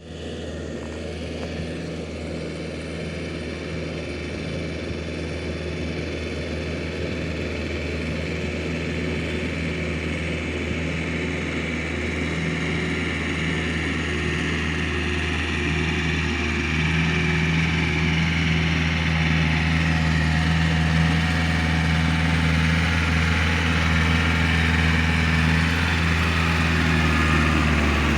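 Engine of a four-wheel Iseki tractor running steadily, growing gradually louder.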